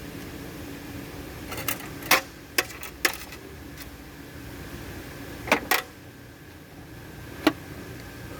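A series of short sharp metallic clinks and knocks, about seven spread irregularly, as metal tools and parts are handled during a car repair, over a steady low hum.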